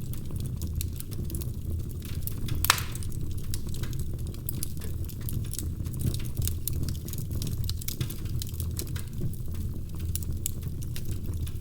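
Wood fire crackling in a fireplace: rapid, irregular small pops and snaps over a low steady rumble, with one louder pop nearly three seconds in.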